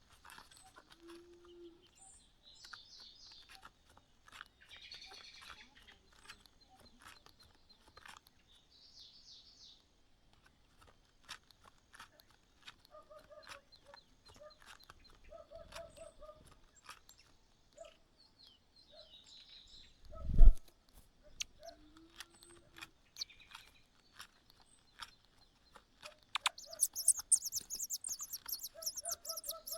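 Small birds at a nest chirping in short, scattered high calls with light rustling clicks, and one loud thump about two-thirds of the way through. Near the end a burst of rapid, very high-pitched chirping starts.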